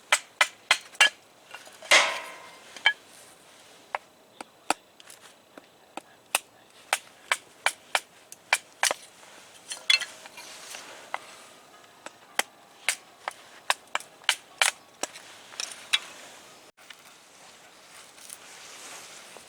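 Campfire wood crackling and popping: sharp, uneven cracks a few times a second, with a denser burst about two seconds in and fewer pops near the end.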